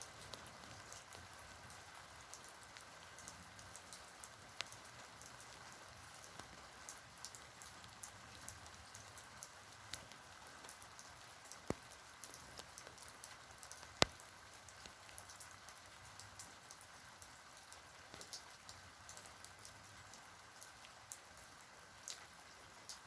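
Mild rain falling steadily: a soft, even hiss with scattered sharp taps of single drops landing, one louder tap about fourteen seconds in.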